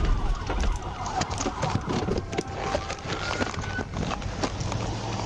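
Police siren wailing faintly with slow rising and falling sweeps, under a steady rush of noise and a jumble of short knocks and clatters as an officer forces a motorcyclist to the ground.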